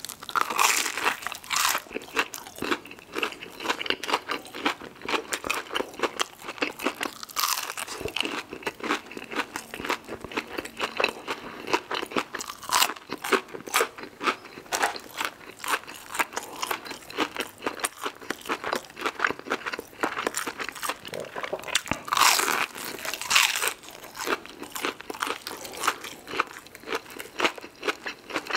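Close-miked crunching bites and chewing of extra-crispy fried chicken nuggets, a dense run of crunches with louder bursts at the first bite, about a quarter of the way in and again about three-quarters of the way through.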